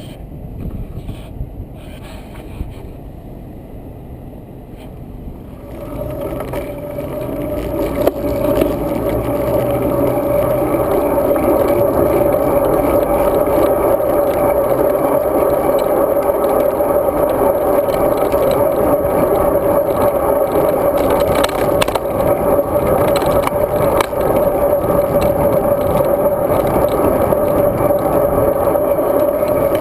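Road bike in motion, its tyres rolling with a steady humming scrape that builds about six seconds in and then holds.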